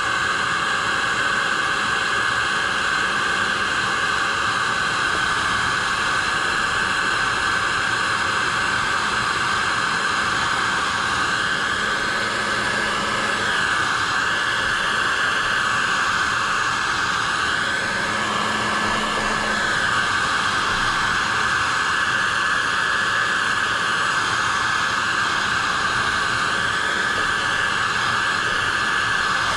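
Heat gun blowing steadily while shrinking heat-shrink tubing over a stapled eyeglass-frame repair; it cuts off abruptly near the end.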